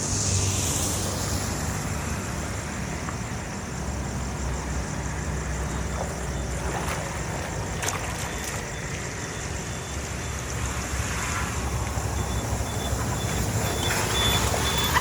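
A heavy vehicle's engine running steadily with a low rumble. Near the end a faint high beep repeats at an even pace.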